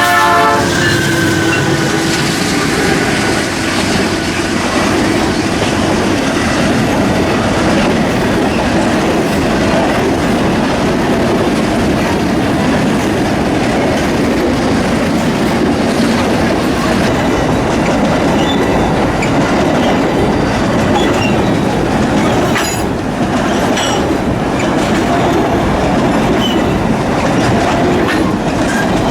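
Freight train rolling past, its wheels clattering over the rails with some faint wheel squeal in a steady loud rumble. A locomotive horn blast cuts off within the first second.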